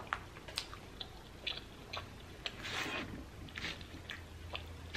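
Close-miked chewing of garlic naan dipped in tomato soup: scattered soft wet mouth clicks, with a longer breathy noise about three seconds in, over a low steady hum.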